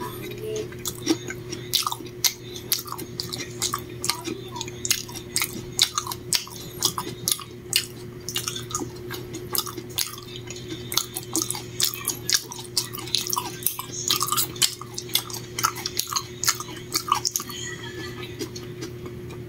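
A person chewing and eating with the mouth close to the microphone: many irregular, crisp clicks and smacks, which stop about two seconds before the end. A steady low hum runs underneath.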